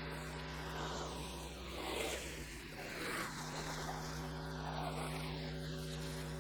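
Pressure washer running steadily with a low motor hum, its water jet hissing against the house as the spray sweeps back and forth.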